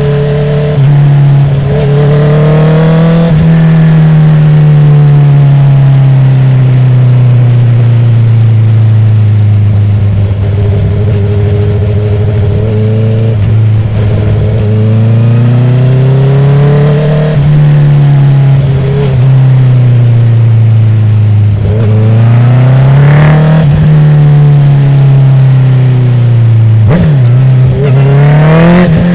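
2019 Honda CB650R's inline-four through an open Akrapovic full exhaust, pulling hard and easing off several times, its note climbing and then dropping or holding. A few brief breaks, one about three seconds in and others near the end, cut into the note between climbs.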